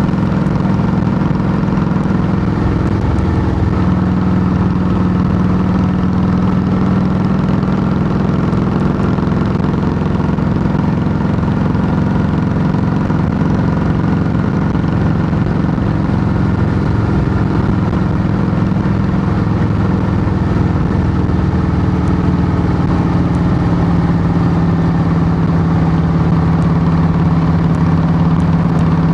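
Harley-Davidson Softail Heritage Classic's Twin Cam 96 V-twin running steadily and loud through Samson fishtail true-dual exhaust pipes, its pitch easing slightly lower in the second half.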